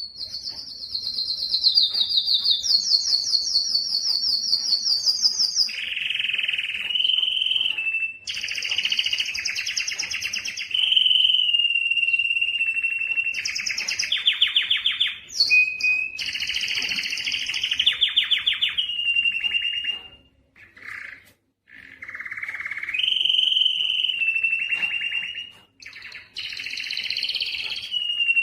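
Domestic canary singing a long song of rapid trills, one repeated phrase after another, each a few seconds long, with a brief pause about two-thirds of the way through.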